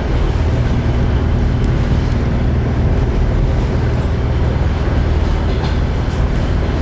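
Passenger train running at speed, heard from inside the carriage as a steady low rumble.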